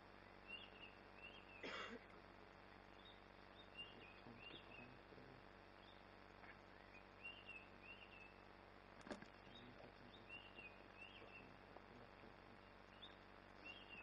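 Near-silent bush ambience with faint, short bird chirps repeating about once a second, and two brief sharp noises, about two seconds in and about nine seconds in.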